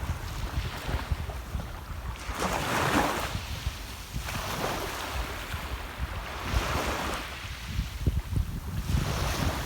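Sea waves washing onto the shore, surging in and falling back about every two seconds, with wind rumbling on the microphone.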